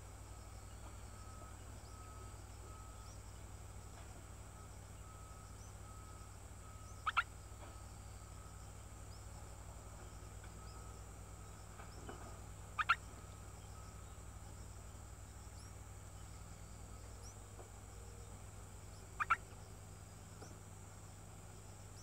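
A bird's short double call, a quick pair of notes, heard three times about six seconds apart. Behind it is a faint steady outdoor drone with a soft repeated note.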